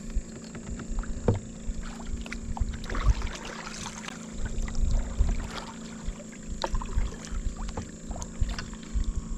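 Kayak on the move: paddle splashes in the water with scattered knocks against the hull.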